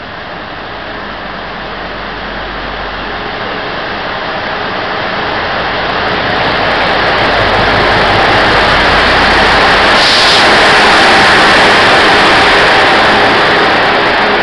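A Taiwan Railways diesel locomotive hauling a passenger train into the station, its engine rumble growing steadily louder as it passes close by, then the coaches' wheels rumbling on the rails as they roll past. A brief hiss comes about ten seconds in.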